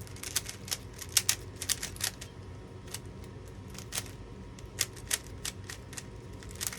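Rubik's-type puzzle cube being turned by hand in quick succession, its layers snapping into place in a rapid, irregular run of clicks.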